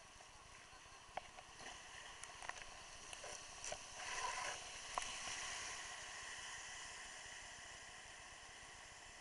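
A scatter of light knocks and splashes, busiest in the middle, over a steady rush of water.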